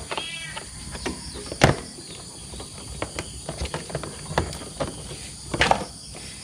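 Scattered clicks and knocks from hands handling a bypass cooling hose and its fittings on a motorcycle engine, with a sharper knock about a second and a half in and a few more near the end. A steady insect drone runs beneath.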